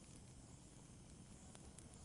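Wood fire in a fireplace burning quietly: a faint steady hiss with a couple of small, soft crackles about one and a half seconds in.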